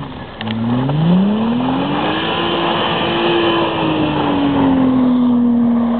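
Audi S4's engine revving as the all-wheel-drive car spins circles in snow. The pitch climbs for about two seconds, holds, then eases down and settles to a steady note, over the hiss of spinning tyres throwing snow.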